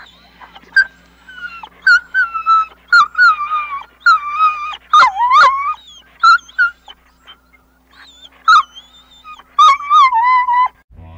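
Young dog whining: a string of high, drawn-out whines that slide and fall in pitch, with a short pause about seven seconds in.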